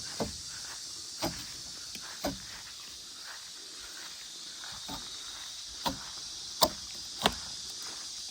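A series of about seven short knocks or thuds, spaced roughly a second apart and irregular, the loudest two near the end, over a steady high-pitched hiss.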